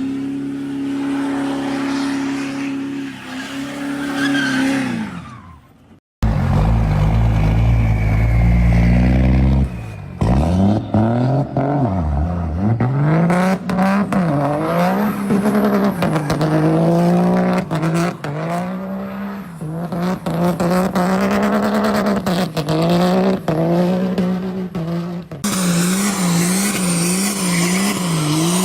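Diesel truck engine revving, its pitch rising and falling again and again. It cuts out abruptly about six seconds in, then comes back loud.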